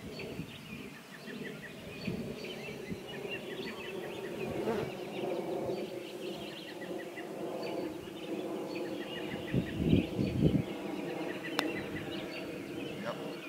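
Birds chirping over and over in short high calls above a low steady hum. Two dull thumps come about ten seconds in, and a single sharp click follows a little later.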